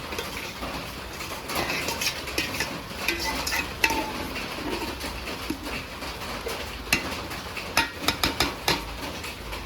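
A metal spoon or spatula stirring and scraping masala and potatoes frying in a cooking pan, with irregular clinks against the pan that come thicker near the end.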